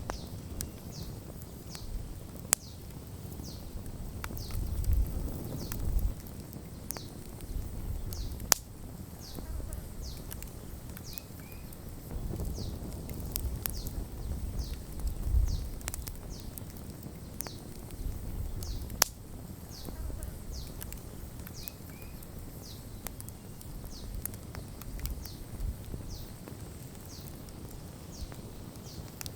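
Wood campfire burning, with a low uneven rumble of the flames that swells every few seconds and a few sharp crackling pops. A short high chirp repeats steadily about once a second throughout.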